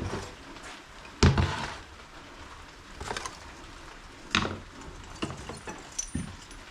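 A few separate knocks and clunks of hard objects being handled, the loudest about a second in, with two more near the middle and lighter taps after.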